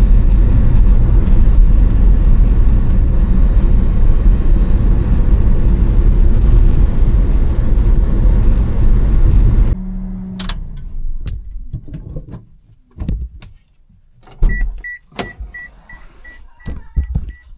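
Steady, loud running noise of a kei vehicle that cuts off suddenly about ten seconds in. Scattered clicks and knocks follow, then a rapid beeping chime of one pitch near the end.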